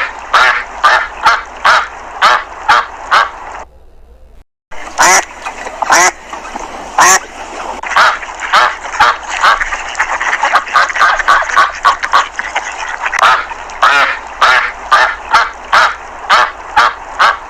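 Domestic ducks quacking, a run of short calls two or three a second, broken off by a brief silence about four seconds in and then resuming, busier in the middle.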